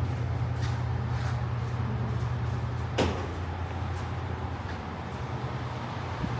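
Street traffic noise with a steady low hum that eases slightly about five seconds in, and a single sharp knock about three seconds in.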